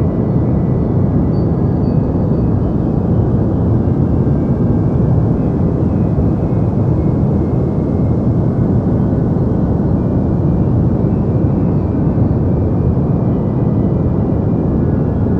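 Deep white noise for sleep: a steady, even rush weighted to the low end, with little hiss up top. It does not change.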